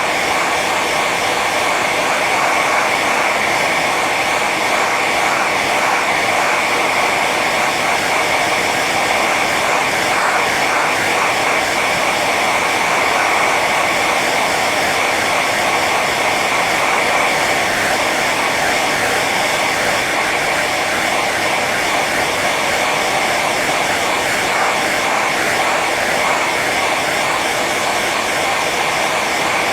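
Electric hair dryer running steadily on its high setting: a constant rush of blown air with a whine of the fan motor.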